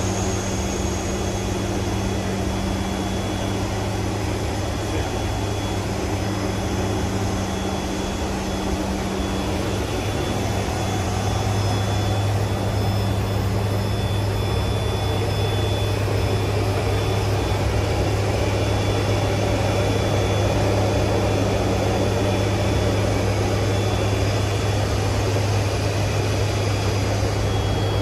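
C-130J Super Hercules turboprop engines and propellers droning steadily with a deep, even hum, heard from inside the aircraft.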